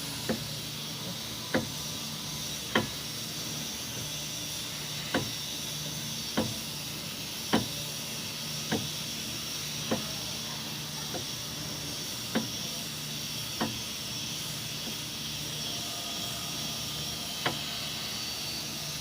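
Sharp metal-on-metal hammer strikes at a steady pace, about one every second and a quarter, during a differential bearing and gear replacement. The strikes pause for a few seconds near the end, then come once more. A steady hiss runs underneath.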